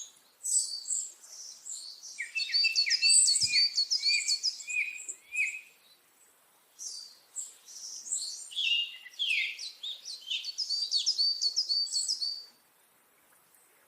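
Bird chirping in rapid strings of short, high, downward-sliding notes. There is a short pause midway, and the chirping stops shortly before the end.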